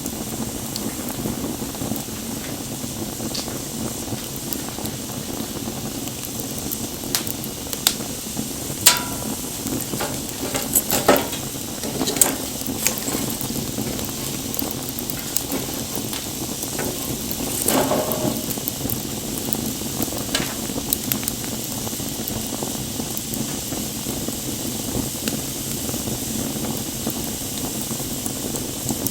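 Wood bonfire burning with a steady hiss and scattered crackles and pops. A run of louder pops comes about a third of the way in, and a short burst of crackling a little past halfway.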